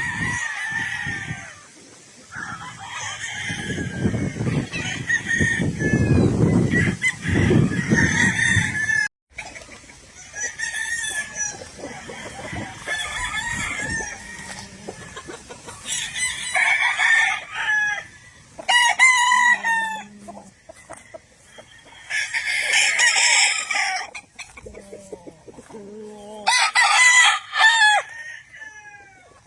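Roosters crowing one after another, several separate crows, with chickens clucking between them. A low rumbling noise runs under the calls from about four to eight seconds in.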